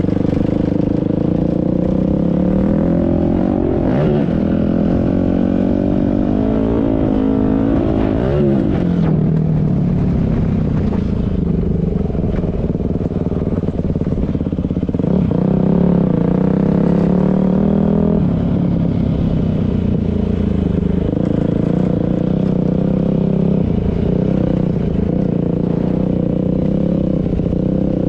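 Dirt-bike engine running under way, its pitch rising and falling with the throttle, with rougher swells a few seconds in and again midway.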